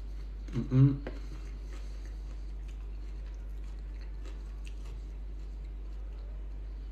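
A man chewing a mouthful of bean salad, with a brief voiced sound through his full mouth about a second in. Faint chewing clicks follow over a steady low hum.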